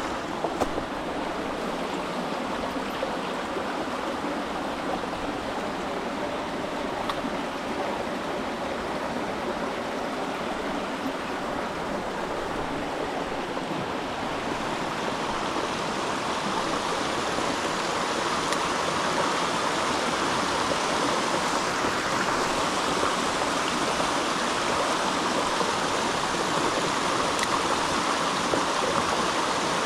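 A creek's water flowing in a steady rush, getting a little louder about halfway through.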